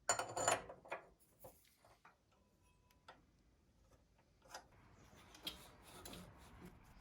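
Small parts and packaging from an exhaust kit being handled: light clicks and rustling, loudest in the first second, then a few scattered faint ticks.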